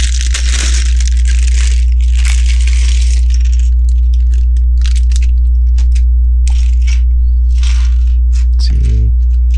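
A plastic parts bag crinkling for about three seconds. Then small plastic Lego pieces click and rattle in quick separate taps. A steady low mains hum runs underneath and is the loudest sound.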